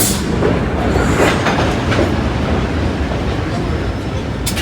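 Vintage R1/9 subway cars running along the track: a steady low rumble with wheels clicking over rail joints, one sharp click near the end.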